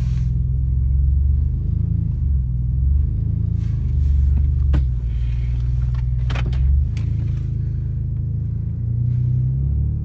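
Pontiac car engine running through a broken exhaust, a low rumble that rises and eases a little as the car is moved, with a few sharp clicks or knocks about halfway through.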